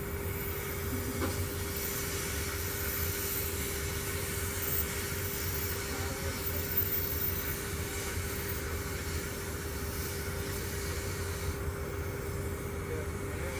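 Steady engine rumble with a constant hum and a hiss, unbroken throughout.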